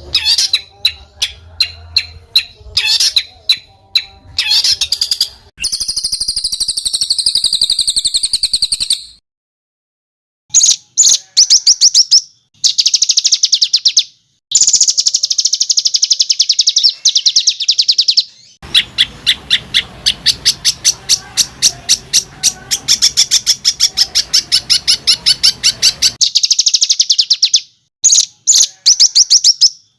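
Songbird singing fast, harsh runs of tightly repeated notes and buzzy trills (rough 'tembakan kasar' rapid-fire notes and tight rolls). The song comes in spliced stretches that cut off abruptly, with short silent gaps between them.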